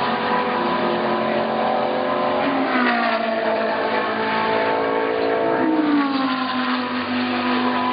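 Several GT race car engines at high revs, more than one engine note at a time, their pitch gliding down and then sweeping back up as the cars pass, brake and change gear.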